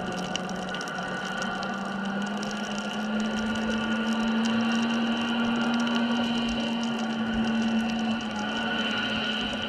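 Underwater ambience at a deep reef: a steady low hum that rises slightly in pitch about three seconds in, over a faint crackle of scattered clicks.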